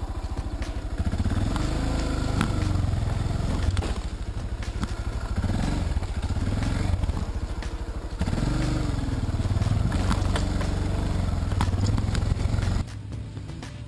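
Motorcycle engine running at low speed, revved up and eased off several times, with scattered clicks and clatter. It drops away suddenly near the end.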